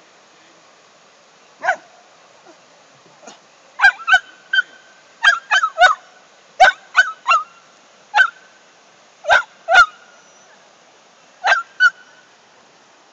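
A bird's short honking calls, about fifteen of them, coming singly and in quick pairs and threes with short pauses between.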